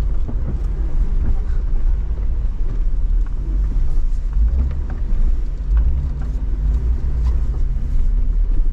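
Jeep driving off-road over snow: a steady low engine and drivetrain rumble with a few light knocks.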